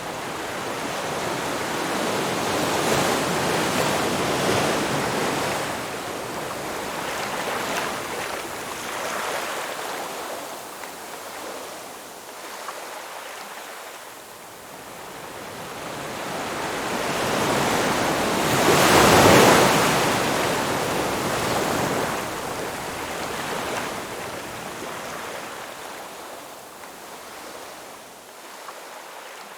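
Ocean waves breaking and washing up a beach, a steady rush of surf that swells and recedes, with the biggest wave breaking about two-thirds of the way through.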